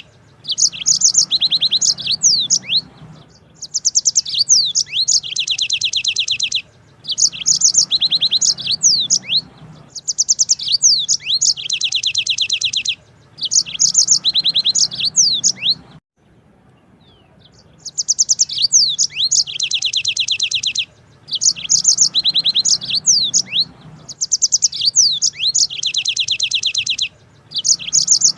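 Yellow-fronted canary (Mozambique singer) singing long rolling trills, phrase after phrase with brief pauses between them, and a longer break of a second or two about halfway through.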